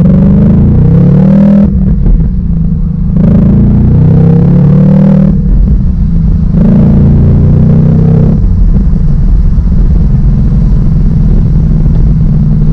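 2019 Ford Mustang Bullitt's 5.0-litre V8 accelerating hard through the gears of its six-speed manual, heard from the cabin with the windows down. There are three rising pulls, each broken by a short lull at the gear change. In the last few seconds the engine settles into a steady cruise.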